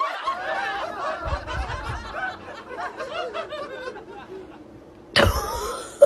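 People giggling and snickering, fading out after about four seconds, then a sudden loud thump about five seconds in.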